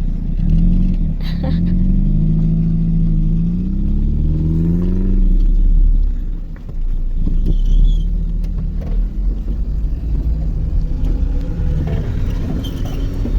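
Car engine accelerating from inside the car, its pitch rising over the first five seconds; the sound dips about six seconds in, then gives way to a steady rumble of driving.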